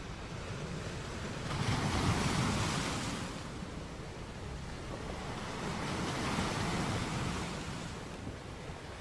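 Sea waves breaking on a shore: two swells of surf wash in, the first about a second and a half in and the second about six seconds in, over a steady background rush of water.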